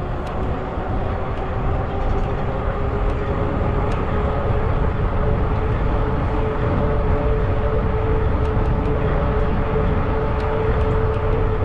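A 20-inch fat-tire electric bike riding along at speed, giving a steady whine that rises slightly in pitch and grows a little louder, over a heavy rumble of wind on the microphone.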